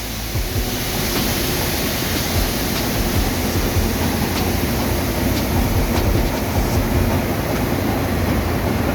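Loud, steady machinery noise of a ship's engine room, with a deep, constant rumble: the main diesel engine running on emergency manoeuvring control from the engine-side stand.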